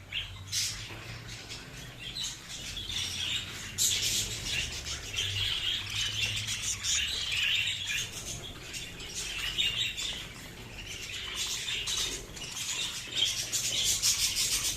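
A flock of budgerigars chirping and chattering, many birds calling over one another.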